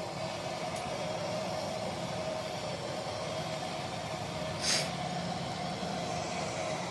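Steady machine hum, with one short hiss a little past halfway through.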